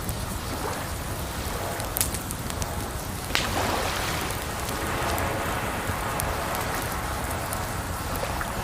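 Wood fire crackling, with sharp pops about two and three seconds in and lighter ticks between, over a steady rush of running water.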